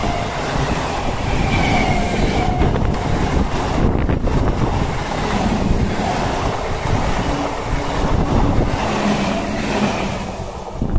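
Single-windshield EMU local train running past at speed close by: a continuous rush of wheels on rail and passing coaches, dying away near the end as the rear cab goes by.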